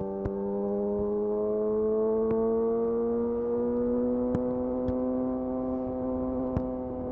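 Yamaha YZF-R6's inline-four engine through a de-catted Akrapovic slip-on exhaust, running steadily under way, its pitch creeping slowly up over the first few seconds and easing a little near the end. A few faint clicks.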